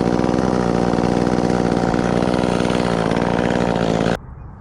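Chainsaw engine running steadily at an even speed, then shut off abruptly about four seconds in.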